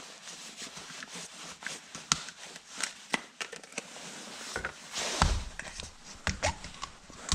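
Handling noises: scattered light clicks and taps, with a heavier knock and rattle about five seconds in.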